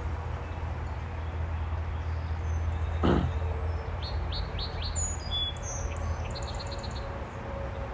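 A song sparrow singing: a few short high downslurred notes followed by a quick run of repeated notes. Wind rumbles on the microphone throughout, with a brief louder swoosh about three seconds in.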